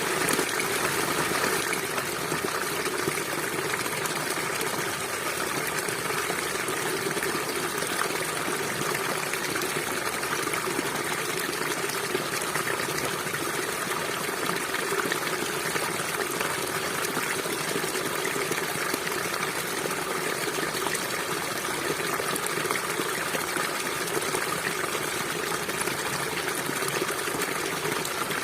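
River water flowing over rocks, a steady rushing and gurgling that never lets up.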